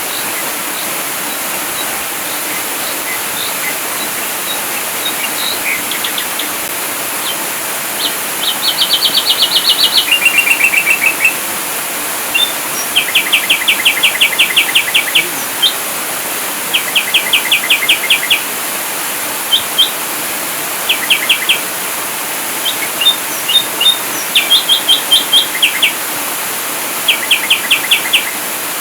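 Ashy drongo singing in rapid bursts of sharp, repeated metallic notes, the fast 'shots' (tembakan) prized in mastering recordings, over a steady hiss.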